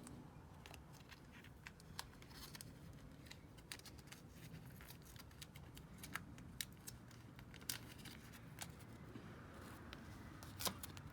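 Faint scattered clicks and light rubbing from hands handling tractor air-filter parts and a small washer, with a slightly louder pair of clicks near the end.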